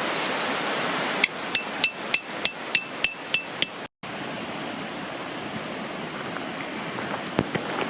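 Hammer driving a metal tent peg: about nine quick, ringing metal-on-metal blows, roughly three a second, that stop suddenly. A steady rush of river water runs underneath.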